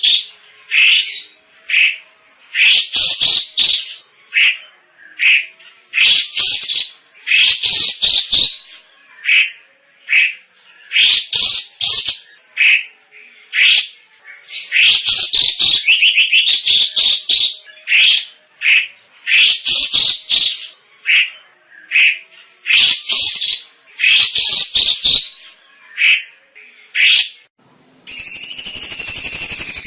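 Cucak cungkok singing loudly: short, sharp, high chirping phrases repeated in rapid clusters with brief gaps. Near the end the song stops and a steady jingling, ringing sound begins.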